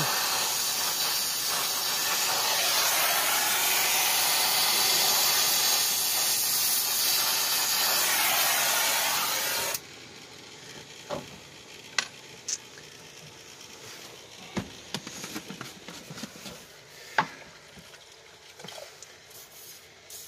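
Soldering torch flame hissing steadily while a copper pipe joint is heated; it shuts off suddenly about ten seconds in. After that there are only faint scattered taps and clicks.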